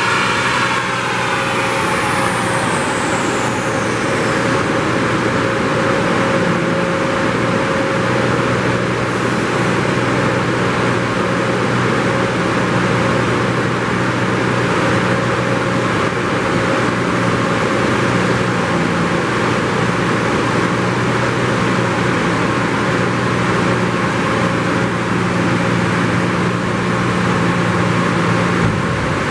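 Nissan Skyline R32 GT-R's twin-turbo RB26DETT straight-six on an all-wheel-drive dyno, its revs falling away over the first two seconds or so after a pull, then a steady running noise with a constant low hum.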